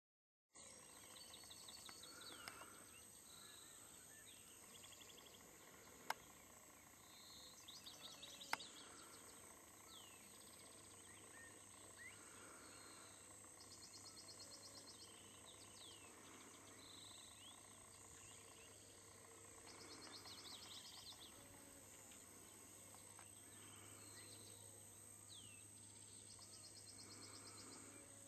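Faint outdoor ambience with birds calling: short trills that repeat every few seconds and scattered small chirps over a steady hiss. Two sharp clicks come about six and eight and a half seconds in.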